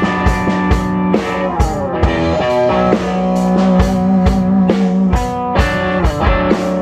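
A band jamming live and unmixed: a drum kit keeping a steady rock beat under sustained electric guitar notes.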